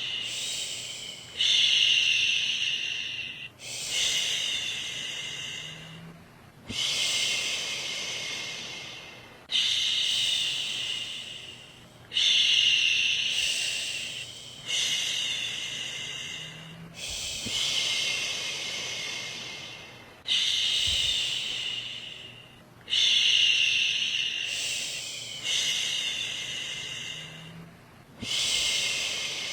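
A woman's voice shushing, 'shhh', over and over to soothe a baby to sleep. Each hiss starts suddenly and fades, with a new one about every two and a half seconds.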